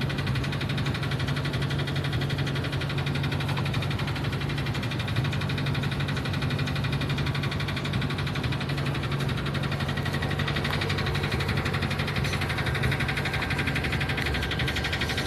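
Ford engine idling with a loud rod knock: a rapid, even knocking from a worn connecting-rod bearing.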